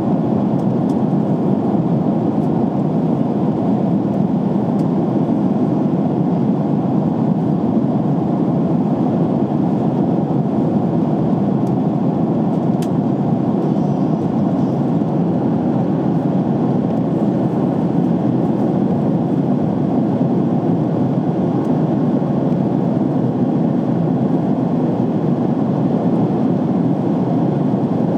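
Steady roar of an airliner in flight heard inside the cabin: airflow and jet engine noise with no change in pitch or level.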